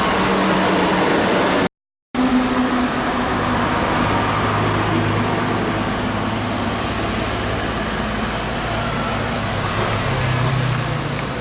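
Expressway traffic in the wet: a steady hiss of tyres and spray on a wet road with the low drone of a truck engine passing. The sound cuts out for about half a second near the start.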